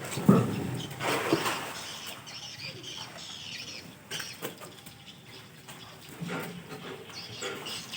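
Crocodiles thrashing over food: a sudden loud thrash about a quarter second in and another about a second later, then irregular scuffling and slapping.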